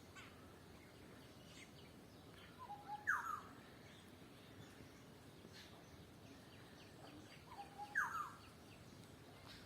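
A bird calling twice, about five seconds apart; each call is a short low note followed by a quick downward-sweeping phrase. Fainter chirps of other birds sound in between.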